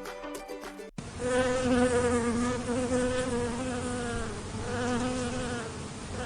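Bee buzzing in flight: a steady buzz whose pitch wavers gently, starting about a second in.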